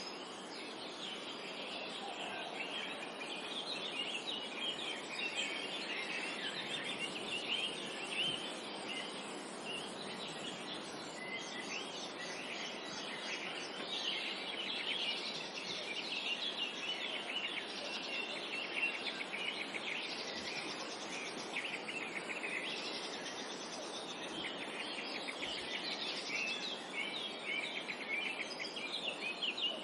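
A chorus of songbirds chirping and trilling continuously and overlapping, over a steady background hiss of outdoor ambience.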